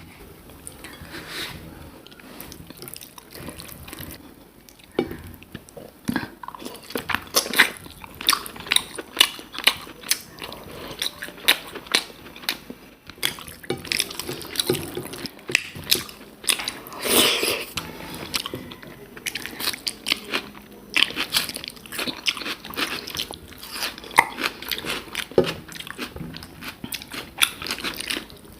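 A person chewing and biting food close to the microphone: many short, irregular mouth clicks and crunches.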